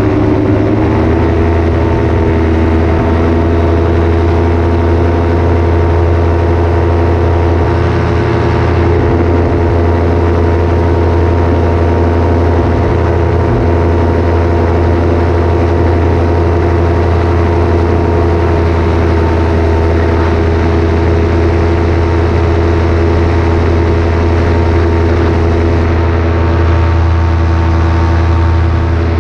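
Paramotor engine and propeller running in flight; the pitch climbs slightly in the first second as the revs come up, then holds steady at cruise.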